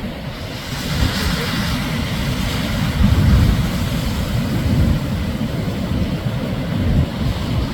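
Shorebreak surf: waves breaking and washing up the sand, with a heavy, shifting low rumble and a swell of hiss from the wash about a second in.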